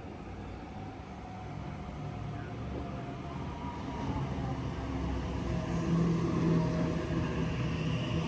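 A passenger train approaching, its running sound with a steady low hum and a few steady tones growing steadily louder.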